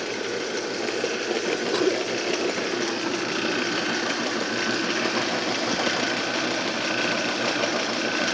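Motor-driven pop can crusher running steadily, its electric motors driving the crusher wheels through cogged V-belts with an even mechanical whir and rattle.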